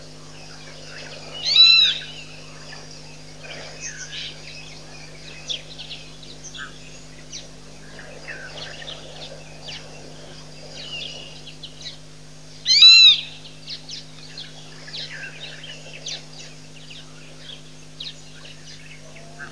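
Birds calling: two loud, harsh calls, about a second and a half in and again about 13 seconds in, over many fainter chirps, with a steady low hum underneath.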